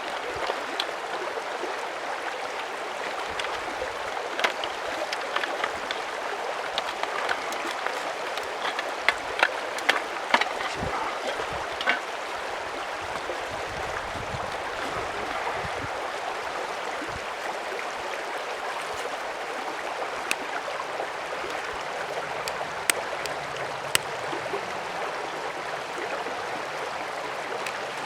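Mountain stream flowing with a steady rushing sound, with scattered sharp clicks and knocks over it, a cluster of them about a third of the way in.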